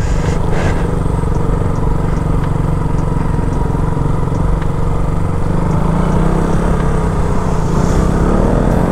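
KTM Duke 200's single-cylinder engine running steadily as the motorcycle is ridden at low speed, picking up slightly near the end.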